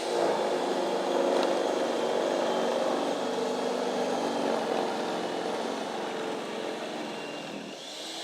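Gasoline snow blower engine running under load, its pitch wavering, then dropping a little and growing quieter near the end.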